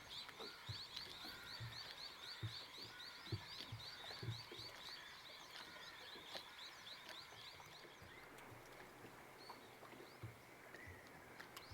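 Faint chorus of calling animals: a fast, evenly repeated high chirping that stops about eight seconds in, with short low calls about once a second underneath.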